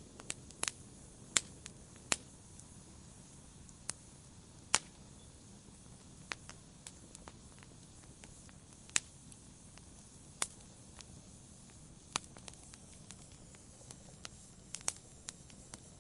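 Wood fire crackling: sharp irregular pops and snaps from the burning wood, one every second or so, over a soft steady hiss.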